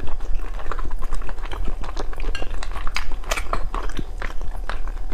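Close-miked chewing of whole cooked squid, full of wet clicks and squelches, mixed with fingers tearing squid apart over a plate of sauce.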